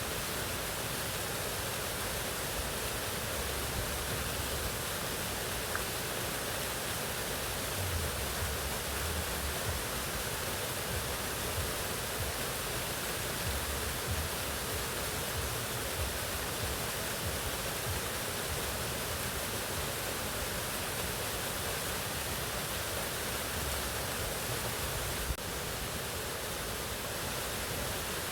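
Waterfall: a steady, even rush of falling water. There is one brief click near the end.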